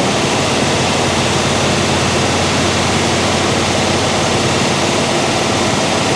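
1967 Chevelle SS 396's freshly built big-block V8 running steadily on its first run in about 30 years.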